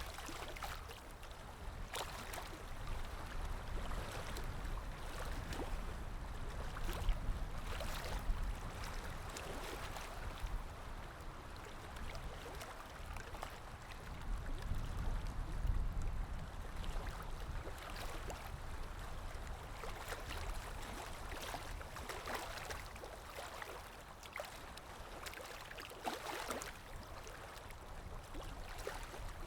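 River water lapping and rippling, with many small irregular splashes and clicks over a steady low rumble.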